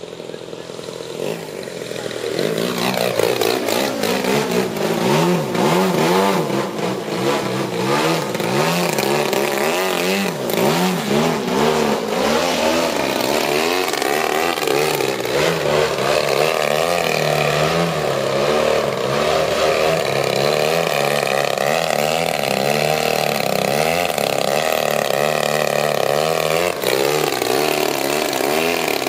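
120cc gasoline engine of a large-scale Edge 540 RC aerobatic plane running hard. It swells in over the first few seconds, then holds steady while its pitch sweeps up and down again and again, with a sharp dip and recovery near the end.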